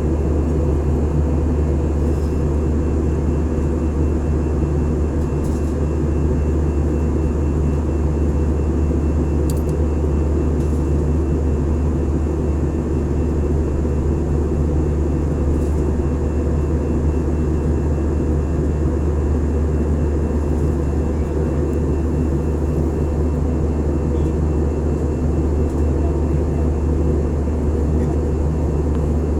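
Airliner cabin noise in flight: a steady, loud, low drone of engines and airflow that does not change, heard from inside the passenger cabin.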